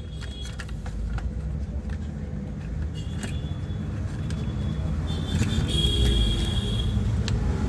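A steady low rumble grows louder toward the end, with a few light clicks and a thin high whine that comes and goes.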